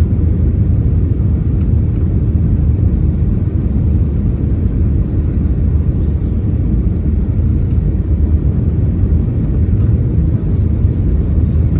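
Steady low rumble of airliner cabin noise, the engines and airflow heard from inside the passenger cabin.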